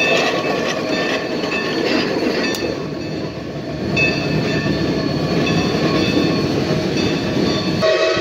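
A train hauled by a geared steam locomotive running past, with a dense rumble of running gear and high wheel squeal coming and going. A steam whistle starts just before the end.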